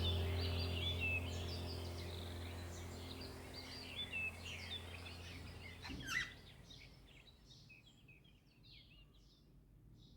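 Budgerigars chirping and warbling in short rising and falling notes, fading away and gone by about nine seconds in. A low steady hum beneath them stops about six seconds in.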